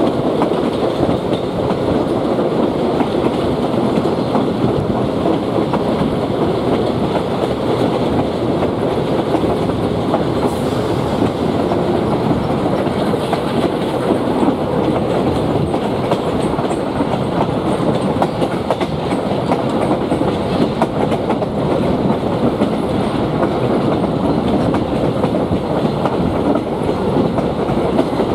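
Passenger train running at speed: steel wheels rolling and clattering over the rail joints in a steady, loud rumble, heard from the moving coach.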